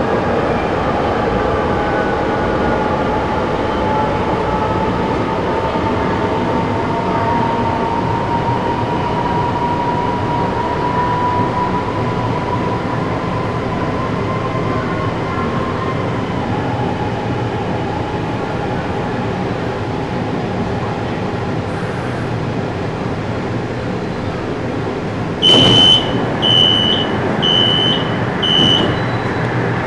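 Interior of a CSR Zhuzhou LRT train running into a station: steady running noise with a faint motor whine that slowly rises in pitch, then fades about halfway. Near the end, four high beeps about a second apart as the doors open.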